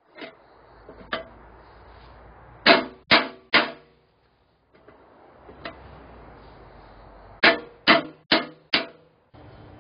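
Hammer blows on sheet steel, struck in quick groups of three and four, each strike ringing briefly.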